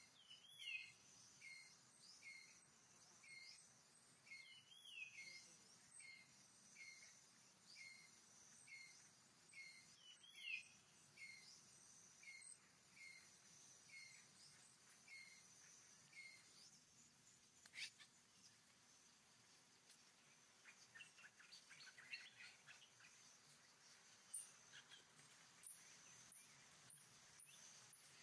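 Faint forest ambience: a bird repeating a short downward-sliding call about every two-thirds of a second through the first half, over a steady high insect hum. Later come scattered soft ticks and a quick run of clicks near the end.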